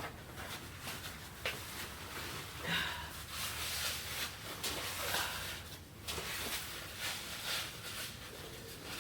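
Quiet, irregular rubbing and rustling noises of kitchen clean-up, coming in several soft swells.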